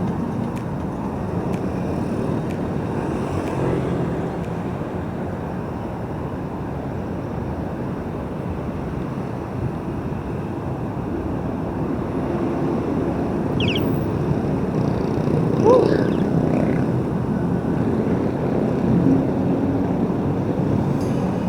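Steady rumble of heavy road traffic, engines and tyres, heard from a bicycle riding alongside, with two brief rising squeaks in the middle.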